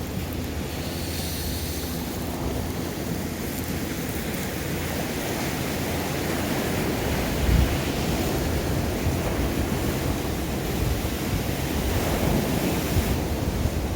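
Sea waves washing on the shore with wind buffeting the microphone, and a brief low thump about halfway through.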